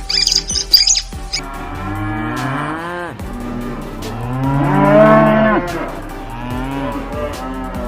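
Cow mooing: a couple of long, drawn-out moos with bending pitch. The first second or so is high bird chirping, which gives way to the moos.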